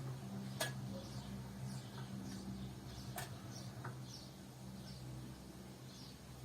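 Beko washing machine running a wash cycle: a steady low hum with short, faint high chirps every half second or so, and two sharp clicks, one early and one about three seconds in.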